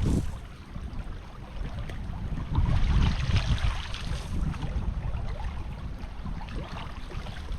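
Creek water sloshing and splashing, with wind buffeting the microphone; a sudden jolt at the start and a louder stretch of sloshing a few seconds in.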